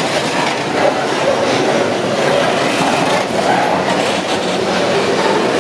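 Freight train wagons rolling past close by: a steady loud rumble with the clatter of steel wheels over the rail joints.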